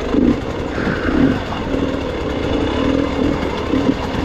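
Gas Gas EX 300 two-stroke enduro motorcycle engine running at low, changing throttle, its pitch rising and falling every second or so as the bike picks its way down steep, rocky terrain.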